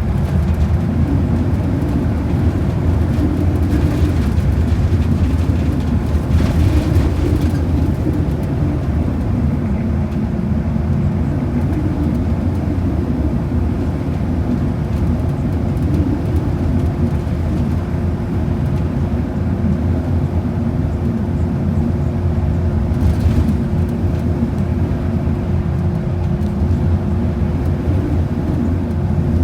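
Bus heard from inside the cabin while cruising: a steady deep rumble of engine and road noise, with a steady whine over it.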